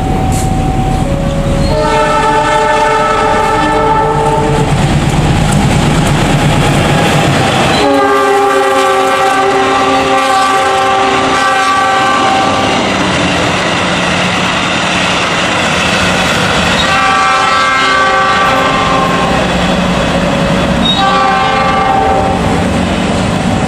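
Two diesel-electric locomotives in double traction pass at speed hauling a passenger train. Their engines rumble heavily for the first several seconds, then the carriages clatter by over the rail joints. A multi-tone horn sounds four long blasts, the longest about four seconds.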